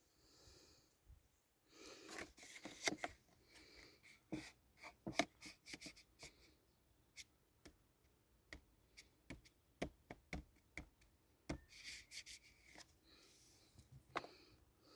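Faint, irregular clicks, taps and rubbing of small objects being handled, with a few brief rustles around two seconds in and again near the end.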